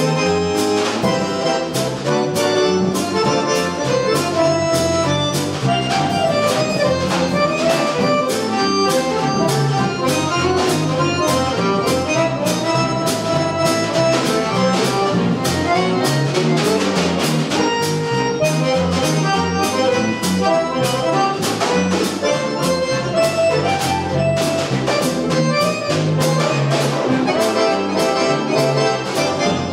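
Jazz accordion playing a melody line over bass guitar and a drum kit keeping a steady beat with cymbals.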